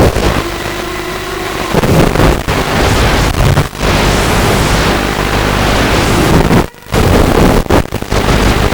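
Walkera F210 racing quadcopter in flight: its motors and propellers are drowned in a loud, rough rush of wind and prop wash on the onboard mic, with a brief dropout near the end.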